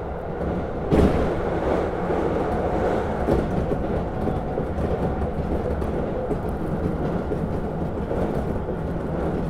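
Kintetsu local train running, heard from inside the front cab: a steady rumble of wheels on rail, with a sudden louder knock about a second in.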